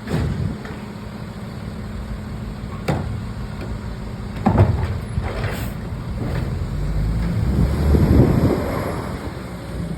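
Garbage truck's diesel engine running with a steady low hum, with sharp knocks about three and four and a half seconds in, and a swell in loudness around eight seconds.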